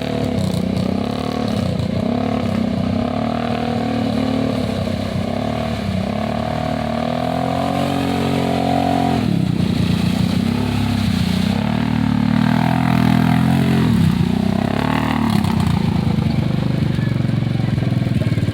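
Kawasaki Brute Force ATV with an 840 big-bore kit, its V-twin engine revving up and falling back again and again as it is ridden, with one long climb in pitch ending in a sharp drop about halfway through.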